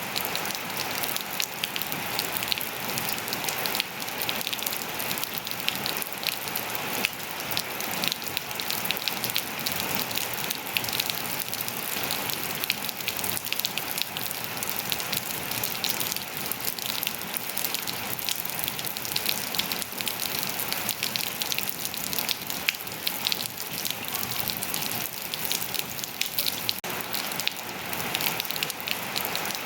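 Steady rain falling on surfaces, a dense even hiss with many fine drop ticks.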